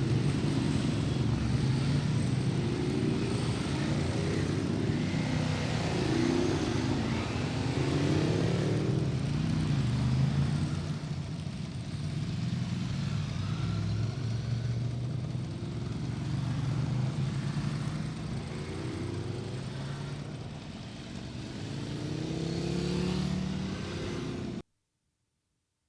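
Several Ducati motorcycles running and revving together, engine notes rising and falling over one another as the group rides off. The sound cuts off abruptly near the end.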